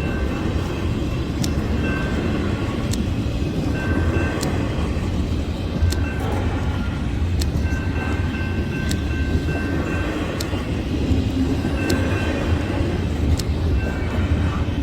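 Train passing close by: a steady heavy rumble of wheels on rail, with sharp clicks about every second and a half and faint high ringing tones that come and go.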